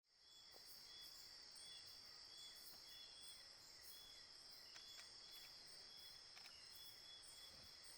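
Faint chorus of night insects: a steady high buzzing drone with short chirps repeating about once or twice a second.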